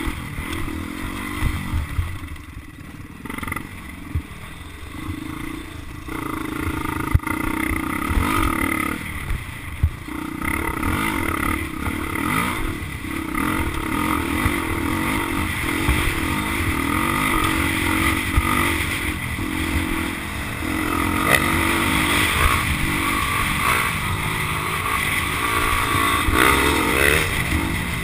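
Motocross dirt bike engine running and revving, its pitch rising and falling as the throttle is worked. It runs quieter for a few seconds near the start, then louder, with a few sharp knocks along the way.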